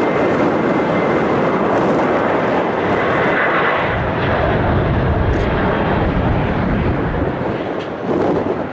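Jet airliner's engines heard as a steady broad rush, with a deep rumble that swells from about four seconds in and eases off near the end.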